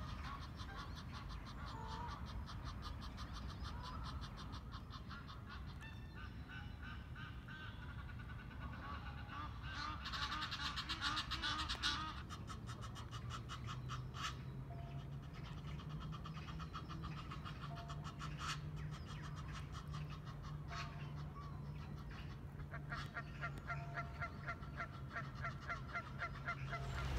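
Waterfowl on a pond calling: repeated calls in quick pulsing runs, busiest around the middle. A steady low hum comes in about halfway.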